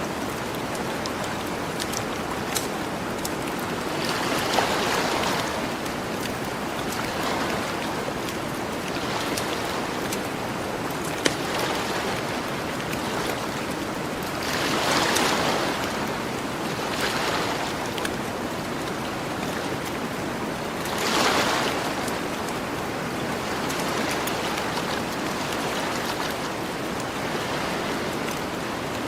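Gentle ocean waves washing onto a beach, swelling and falling back about four times, with a campfire crackling in scattered sharp pops.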